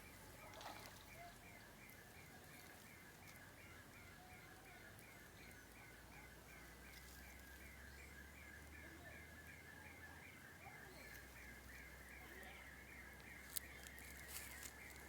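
Faint animal chirping, one short call repeated evenly about two to three times a second, over quiet natural ambience. A couple of sharp clicks come near the end.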